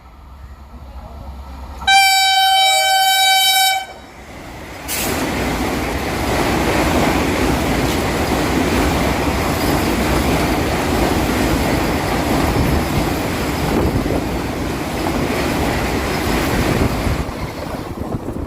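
An Indian Railways express train's locomotive sounds one horn blast of about two seconds, then the train passes at high speed: a loud, steady rush of wheel and wind noise that begins suddenly about a second after the horn and eases off near the end.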